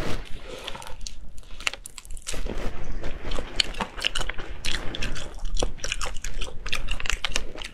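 Close-up chewing and biting of spicy crayfish tails, with a rapid run of small crunchy clicks and wet mouth sounds. It grows denser about two seconds in.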